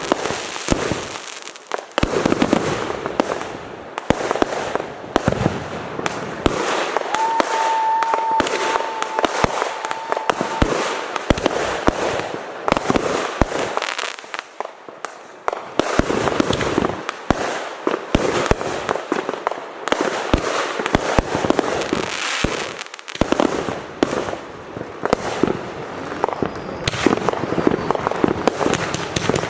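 Fireworks display: a dense run of bangs and crackling bursts, with a steady whistle lasting about three seconds a quarter of the way in.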